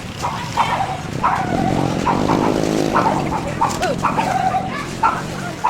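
A dog barking and yipping in short calls, repeated many times over a few seconds.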